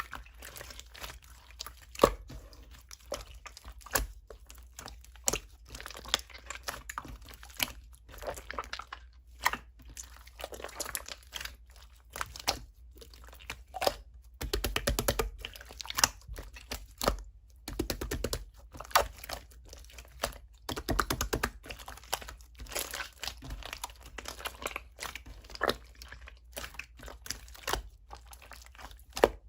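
Close-up crinkling and rustling of objects being handled, with many sharp clicks and taps throughout.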